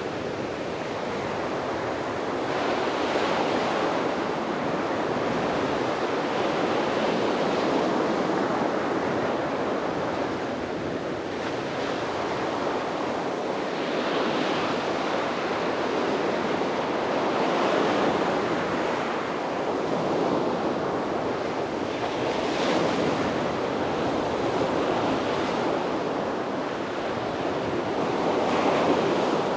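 Sea waves breaking and washing up on a beach, a continuous surf rush that swells and eases every few seconds, with some wind on the microphone.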